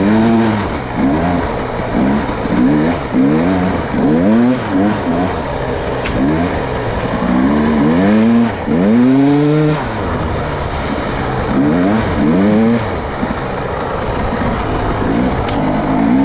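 Off-road vehicle engine revving in repeated short throttle bursts, its pitch rising and falling about once a second, as it is worked through deep snow. It settles to steadier running near the end.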